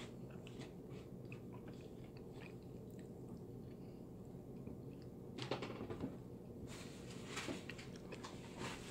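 Close-up chewing and biting into a Kentucky Fried Chicken meal, faint, with soft crunching throughout. Louder crunches come about five and a half seconds in and again around seven to eight seconds.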